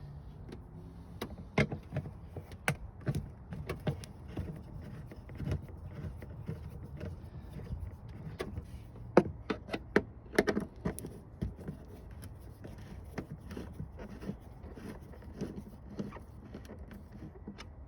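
Irregular metallic clicks and clinks of a hand tool turning and removing the lugs that hold a Shaker hood scoop, with the loose lugs handled. The loudest knock comes about nine seconds in.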